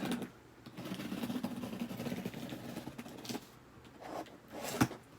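A cardboard shipping package being worked open by hand, with scraping and rustling of cardboard and tape and scattered clicks. A sharp click comes near the end.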